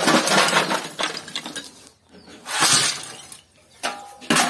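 Broken brick pieces clattering as they are tossed into the fireplace's hollow base as fill, in three separate loads.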